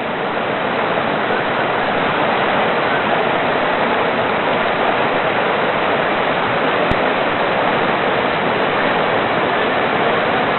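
Steady rush of fast-flowing river water, as at rapids or a weir, with one brief click about seven seconds in.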